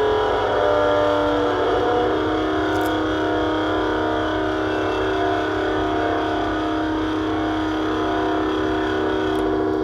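Harsh noise drone from a chain of delay, filter and graphic EQ pedals played through a small Danelectro Honeytone amp. Several sustained tones are held at once, warbling and shifting for the first couple of seconds, then settling into a steady, dense hum.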